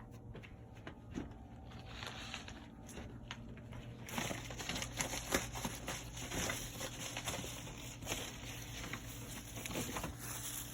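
Rustling and light knocks as firework boxes and packaging are handled and moved, busier and louder from about four seconds in.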